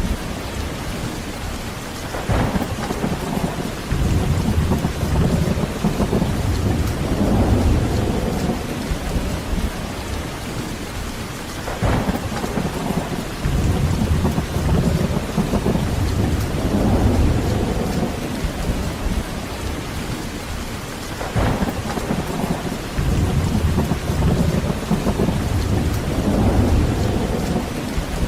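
Heavy, steady rain with thunder rumbling in slow deep waves every few seconds. Three brief sharp cracks come about nine seconds apart, near the start, in the middle and about three-quarters through.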